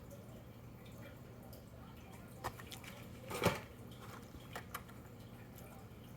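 A few light clicks and taps over a faint steady hum, the loudest about three and a half seconds in: handling of diecast toy cars and their packaging.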